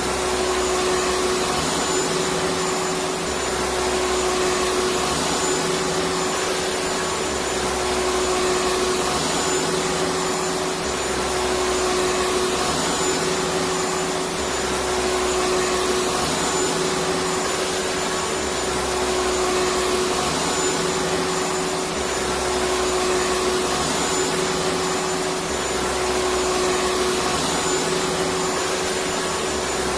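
Electric vacuum cleaner running steadily: a dense even whoosh with a steady hum, and a low rumble that swells and fades about every three seconds.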